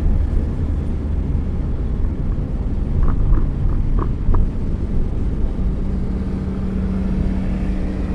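Steady low rumble of a car driving, with a few short high tones about three to four seconds in.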